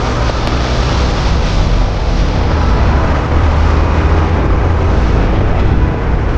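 Motorcycle under way: a steady engine rumble mixed with road and wind rush on the microphone.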